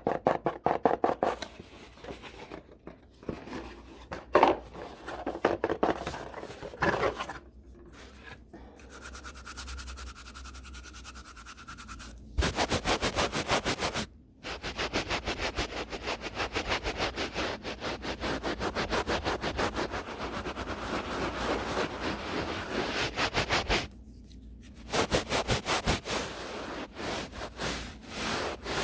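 A brush scrubbed fast and hard against the camera's microphone: rapid, scratchy back-and-forth strokes, several a second, pausing briefly now and then. It is loudest in a stretch about halfway through and again near the end.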